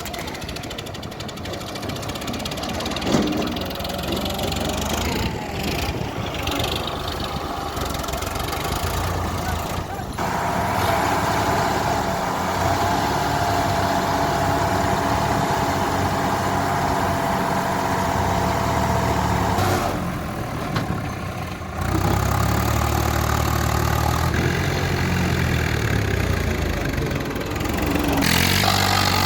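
Diesel tractor engines running, getting louder about a third of the way in, with a steady whine for about ten seconds and the engine pitch rising and falling near the end.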